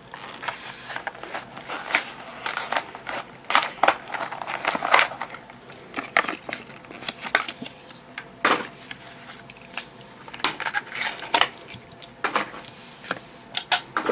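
Plastic blister packaging and cardboard backing being crinkled, cracked and torn open by hand to free a small diecast toy car. It comes as irregular sharp crackles and clicks with short pauses between them.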